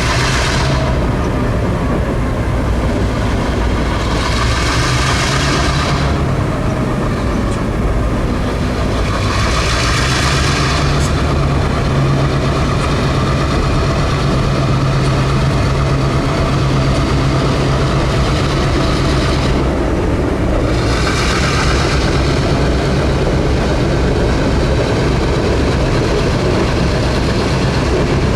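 Heavy diesel freight locomotive running with a steady low engine drone, with a hiss that rises and fades about four times, each lasting a second or two.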